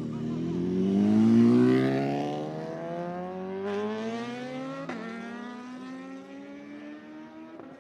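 Superbike engine accelerating hard, its pitch climbing and then dropping briefly at upshifts near four and five seconds in and again near the end. It is loudest about a second in and fades as the bike pulls away.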